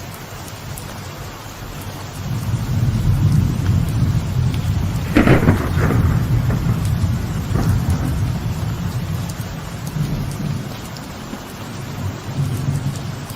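Light rain falling on a veranda, with thunder: a deep rolling rumble swells about two seconds in, a sharper crack of thunder comes around five seconds, and the rumble eases near the end before building again.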